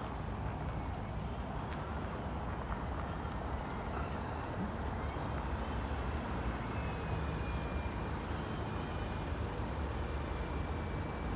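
Train running past on the station tracks with a steady low rumble; a faint thin high whine joins about five seconds in.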